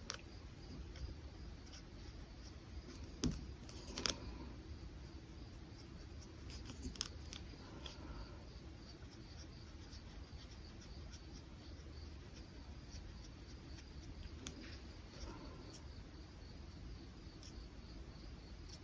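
Faint strokes of a brush pen on paper, with a few short sharp clicks, the loudest about three and four seconds in.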